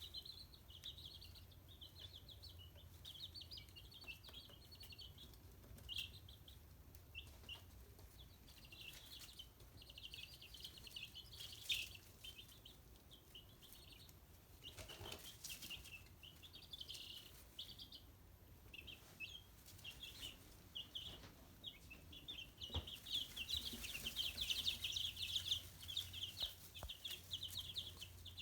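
Chicks peeping in rapid, high chirps, a dense chatter that grows busier and louder near the end, with a few faint clicks.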